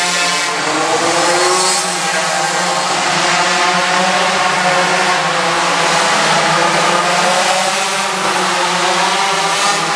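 Motorcycle engine revving up and down as it is ridden hard, its pitch rising and falling with each opening and closing of the throttle.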